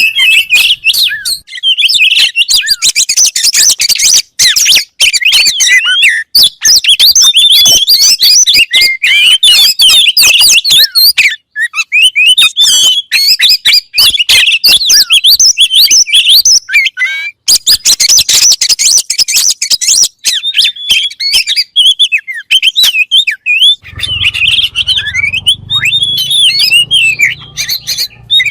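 Oriental magpie-robin (kacer) in full song: a dense, unbroken stream of fast, varied chirps, trills and whistles, loud throughout. A low hum comes in near the end.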